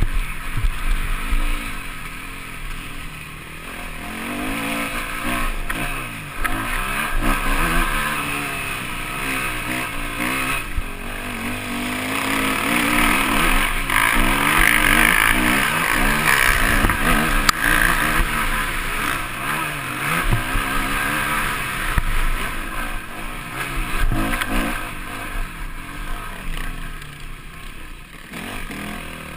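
Motocross bike engine heard from a camera mounted on the bike, revving up and down continuously as the throttle opens and closes and the rider shifts through the gears.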